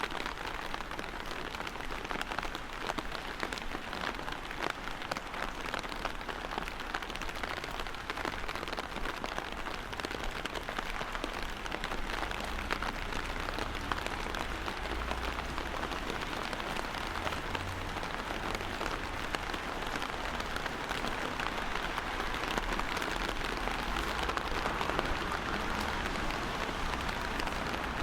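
Steady rain falling, an even hiss dotted with many small drop ticks, with a low rumble underneath.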